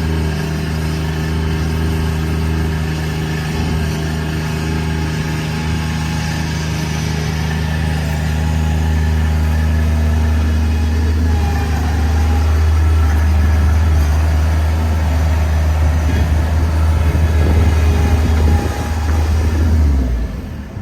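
Bobcat MT100 mini track loader's engine running steadily, growing rougher and more uneven about halfway through, then cutting off abruptly just before the end.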